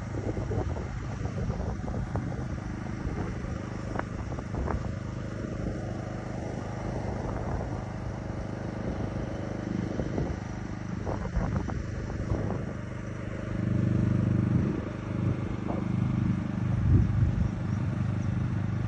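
A motor engine running steadily, with scattered knocks and rattles and a louder stretch about two-thirds of the way through.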